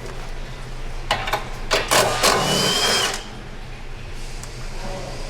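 A power tool runs for about a second and a half, a little after a few sharp clicks, over a steady low hum.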